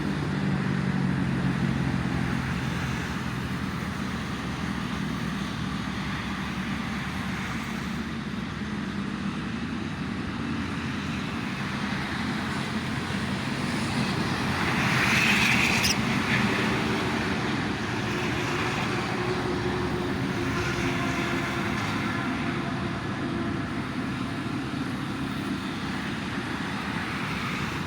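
Steady road traffic noise from the toll road below, with one vehicle passing louder about halfway through.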